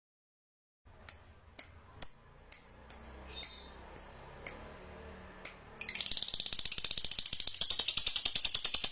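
Songbird call recording: after a second of silence, sharp high chirps come about twice a second, then from about six seconds a fast, even chattering trill that grows louder near the end.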